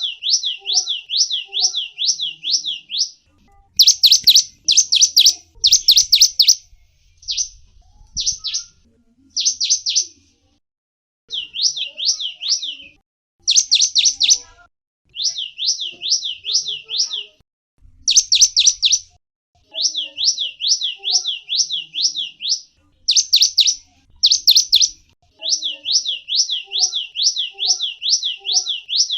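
Small songbird singing rapid trills of high, down-slurred whistled notes, about four or five a second, in bursts of one to three seconds separated by brief pauses.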